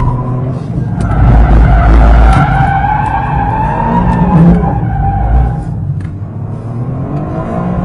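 Toyota GR Corolla's turbocharged 1.6-litre three-cylinder engine revving up and down under hard driving, with the tyres squealing through the turns.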